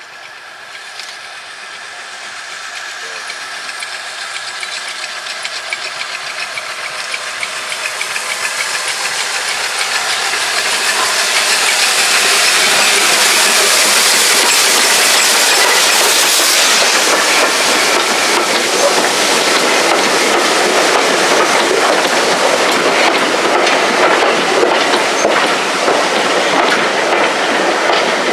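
A steam-hauled train passing on the line, growing steadily louder over the first dozen seconds and then staying loud: a broad rushing noise with many small rapid knocks from the wheels and carriages.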